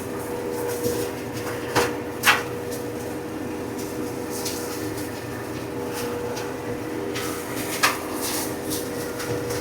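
Compact tractor engine running steadily at working speed, driving a spinning flail mower through brush. A few sharp cracks come from material struck by the flails, two about two seconds in and one near the end.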